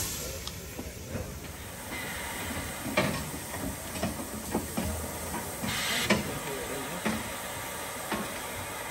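Narrow-gauge steam locomotive pulling away from the station: a few separate bursts of steam hiss, the strongest about six seconds in, over a steady background of train noise.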